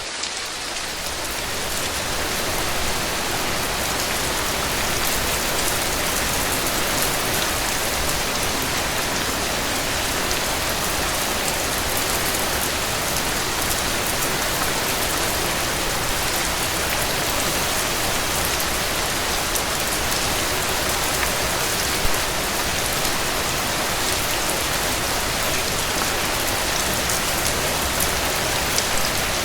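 Heavy rain falling steadily, a dense even hiss of drops hitting a cabin porch, with scattered faint ticks and one sharper click about three-quarters of the way through.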